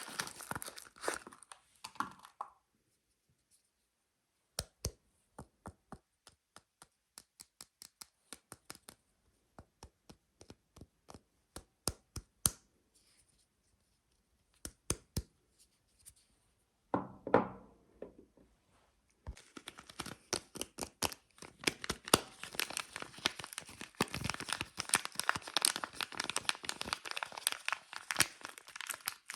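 Soap wrapper crinkling and tearing, then a long run of separate sharp taps on the soap, a duller rub or thud, and dense crinkling and tearing of the wrapper again from about twenty seconds in.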